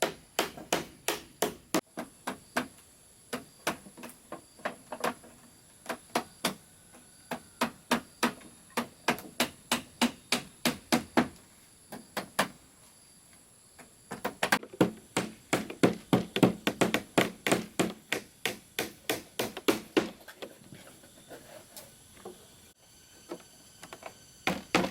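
Hammer blows on wood in quick runs of about two to four strikes a second, with short pauses about halfway through and near the end.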